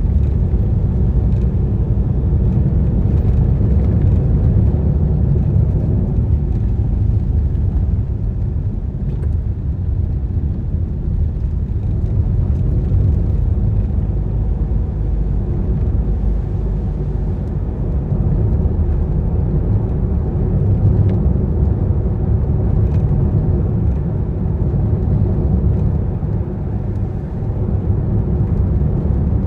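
Car on the move: a steady low rumble of road and engine noise, with a few faint ticks now and then.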